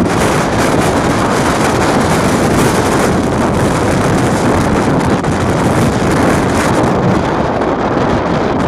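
Strong wind blowing hard across the microphone: a loud, unbroken rush of noise with gusts rising and falling.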